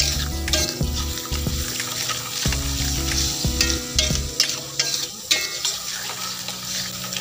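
Blended spice paste of shallot, garlic, ginger and chilli sizzling in hot oil in an aluminium wok, with a spatula stirring and scraping across the pan in short strokes. Background music plays underneath.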